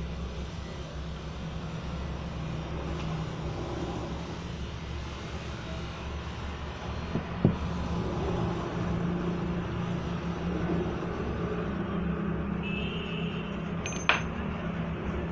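Steady low rumble of background road traffic, with two sharp clicks, one about halfway through and one near the end, and a brief high tone just before the second.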